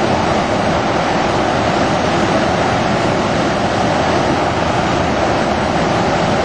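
Floodwater released from a dam rushing into the river below as whitewater: a loud, steady rush with no letup.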